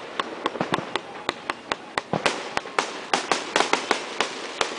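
Fireworks display: a rapid, irregular series of sharp bangs and pops from bursting fireworks, about five a second.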